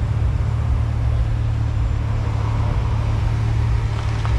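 A car engine running steadily at an even, low pitch, with no revving.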